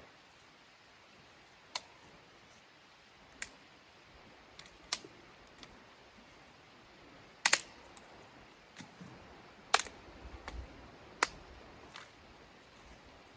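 Irregular sharp clicks or snaps, about seven over a dozen seconds, one of them doubled, over a faint steady hiss.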